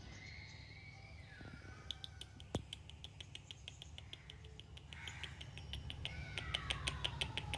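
Pet parrot making soft whistles that slide down in pitch, one at the start and a longer falling one near the end, with a run of faint quick clicks through the middle and later part.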